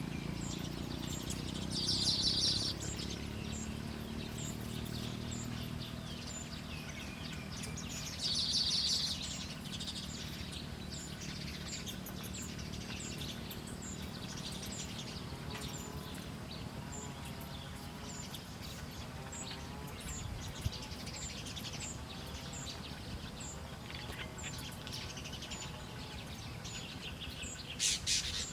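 Wild birds chirping outdoors. There are two short loud bursts of chirping about two seconds in and again around nine seconds, and a third near the end. Faint high chirps repeat steadily throughout, over a constant low background hum.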